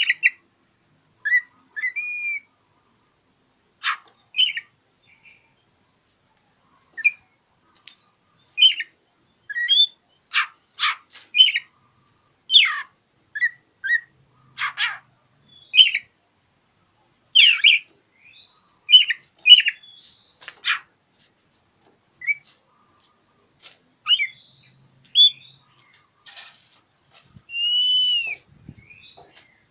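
Oriental magpie-robin (kacer) singing its challenge song: short sharp whistles and scratchy chirps in separate phrases with pauses between them, and a longer arching whistle near the end.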